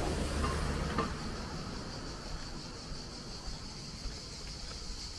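Outdoor street ambience: wind rumbling on the microphone for the first second or so, then a steady, faint high-pitched insect chirring.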